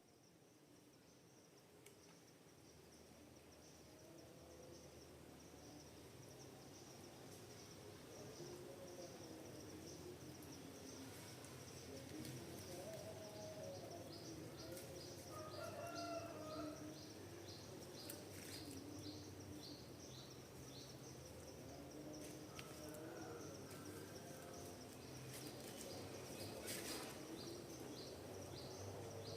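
Forest ambience: birds calling with wavering, warbling notes over a steady high insect drone. From about halfway through, a run of short high chirps repeats about twice a second. The sound fades up at the start.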